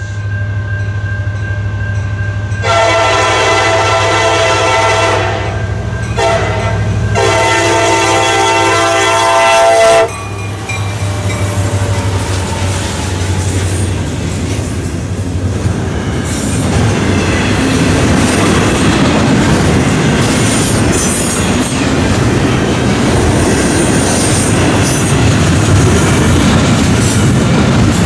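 A freight train's diesel locomotive approaches with its engine humming and sounds two long horn blasts. The horn stops about ten seconds in. Double-stack intermodal container cars then roll past close by with steady wheel-and-rail clatter and occasional wheel squeal.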